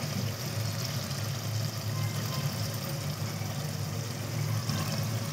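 Tomato and onion masala sizzling steadily in an aluminium pot, with a low steady hum underneath.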